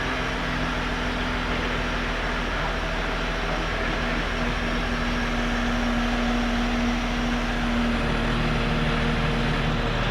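A heavy machine's engine running steadily, its note shifting about eight seconds in.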